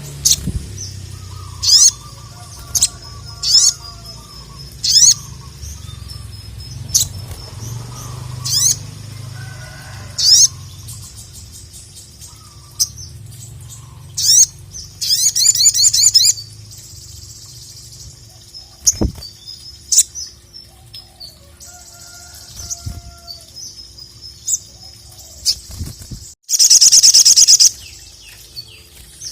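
Sogon (sogok ontong, a little spiderhunter) singing: short, sharp, high-pitched calls repeated about once a second, then a rapid trill about halfway through and a longer, loud trilling burst near the end. Softer, lower warbling and a faint steady hum run underneath.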